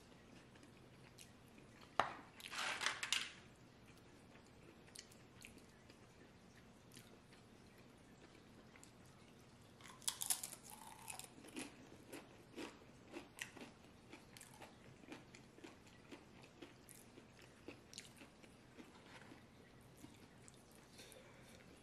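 Close-up eating sounds: a sharp click about two seconds in with a short crunch after it, then a tortilla chip bitten with a loud crunch about ten seconds in, followed by steady crunchy chewing.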